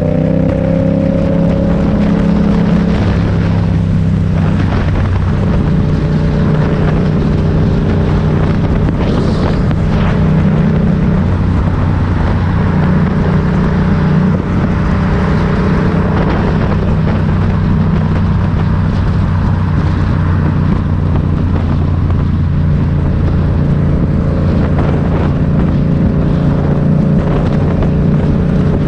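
Motorcycle engine running under way at low, fairly steady revs, its pitch stepping up and down a few times as the throttle changes, with wind noise over the microphone.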